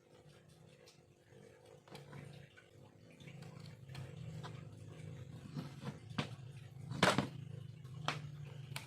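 Carving tool working bamboo: scattered small clicks and taps, with one sharper knock about seven seconds in, over a steady low hum.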